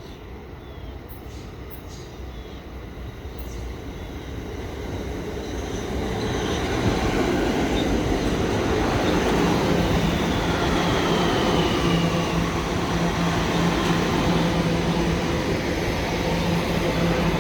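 Staten Island Railway electric train approaching on the tracks, growing louder over the first several seconds. It then runs steadily close by with a rumble and a steady motor hum, and a faint falling whistle about ten seconds in.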